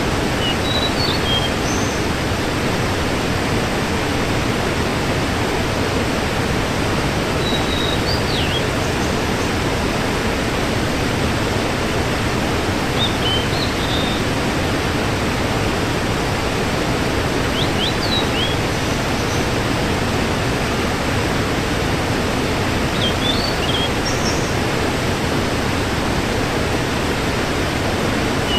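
Waterfall rushing in a steady, unbroken roar of water, with short high chirps coming in about every five seconds.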